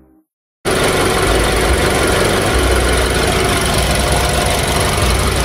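A BMW car engine idling, heard up close in the open engine bay. It cuts in suddenly about half a second in and then runs steadily.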